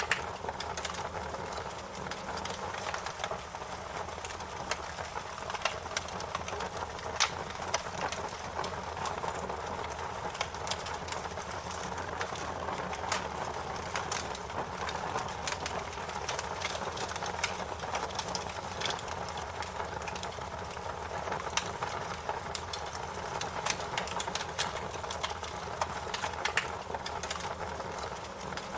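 Wood fire crackling: many sharp, irregular pops and snaps over a steady hiss.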